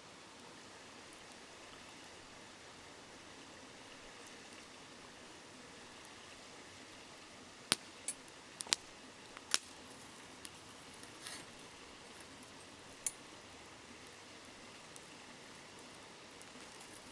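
Steady rush of a babbling river with a wood campfire crackling: several sharp pops come in a loose cluster around the middle, then one more a little later.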